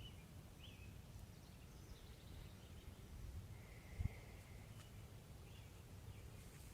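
Faint bird calls, a few short chirps and two longer, even notes, over a low wind-like rumble. There is a single soft thump about four seconds in.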